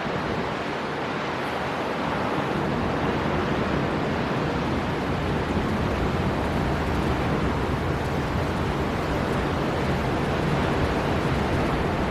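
Storm wind blowing hard over breaking sea waves: a steady, dense rush of noise with a gusty low rumble, swelling slightly over the first couple of seconds.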